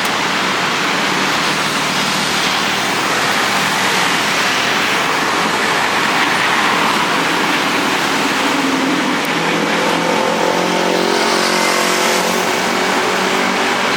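City street traffic: cars driving past with a steady rush of tyre and engine noise. A car engine's pitched note grows clearer in the last few seconds.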